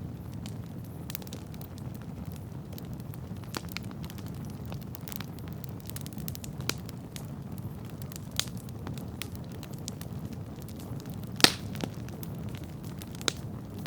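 Wood campfire burning with a steady low rumble of flames and scattered sharp crackles and pops, the loudest pop about eleven and a half seconds in.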